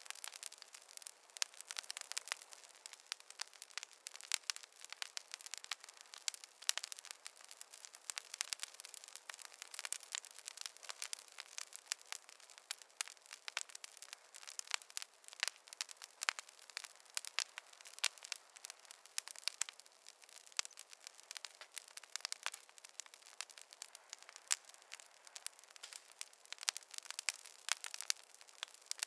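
Wood fire crackling in a fireplace: a steady scatter of irregular sharp pops and snaps, dense throughout, with little low rumble beneath them.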